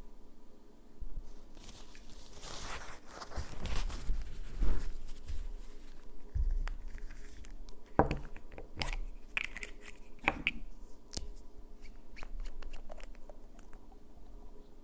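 Hands working with manicure tools and bottles: a couple of seconds of scratchy rustling, then several sharp clicks and taps, with short squeaky sounds among them near the middle.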